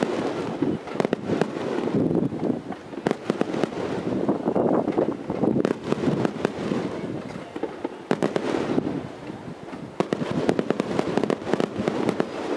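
Fireworks going off in quick succession: many sharp, irregular cracks and pops over a dense, continuous rumble of bursts.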